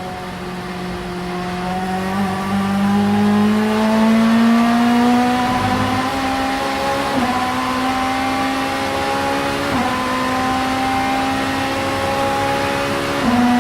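Vauxhall Vectra Super Touring race car's 2-litre four-cylinder engine under hard acceleration. The note climbs steadily for several seconds, then holds high with three brief dips in pitch, typical of quick gear changes.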